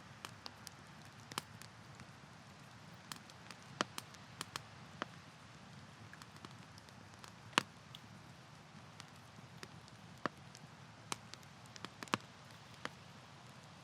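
Wood campfire crackling: a soft steady hiss of burning with irregular sharp pops and snaps, well over a dozen, the loudest snap about halfway through.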